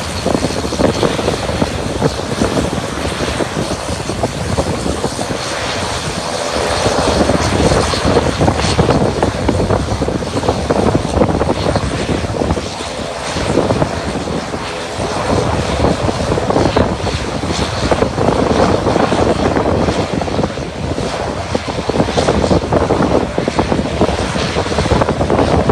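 Aircraft engine running steadily, with a faint whine over it, mixed with gusty wind rumbling on the microphone.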